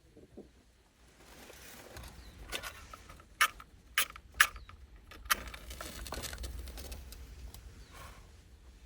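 Objects being handled: four sharp knocks in the middle, over soft rustling.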